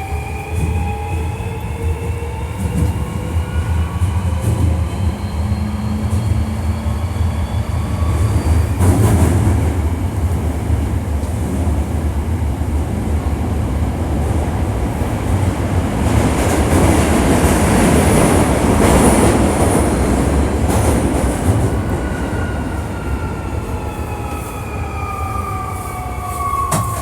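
Hankyu 1300 series electric train running in a subway tunnel, heard from on board: the traction motors' whine rises in pitch as it accelerates over the first few seconds, loud wheel and rail rumble with some high squeal builds in the middle, and the whine falls in pitch near the end as it brakes for the next station. This car is noted for an unusual running noise.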